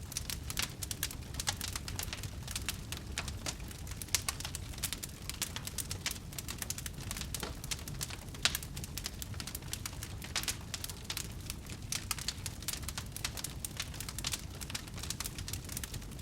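Campfire crackling: a dense, irregular stream of sharp snaps and pops over a low steady rumble of burning.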